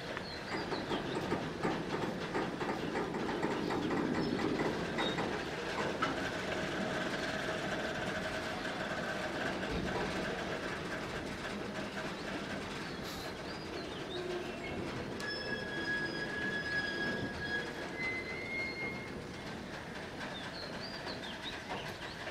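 Freight train of oil tank wagons rolling slowly into the station, wheels clicking over the rail joints, with thin high wheel squeal coming and going.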